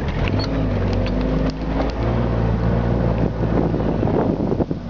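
Vehicle engine accelerating through the gears, its note changing about two seconds in.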